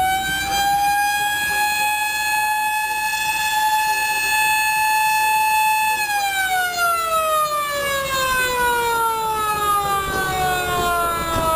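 A siren holding one high wailing note, then slowly winding down in pitch from about six seconds in to the end.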